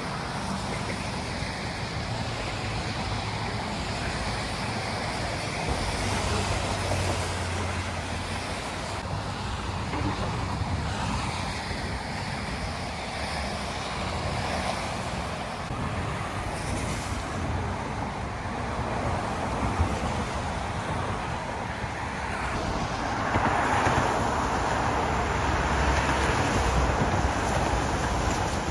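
Steady rumble of road traffic, growing a little louder in the last few seconds.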